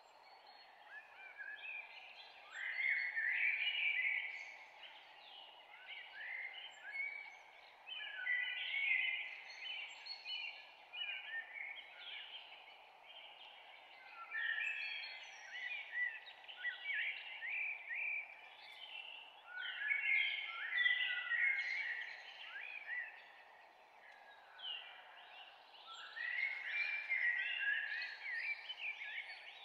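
A songbird singing phrases of quick, sweeping whistled notes, each phrase a second or two long and repeated every few seconds, over a steady background hiss.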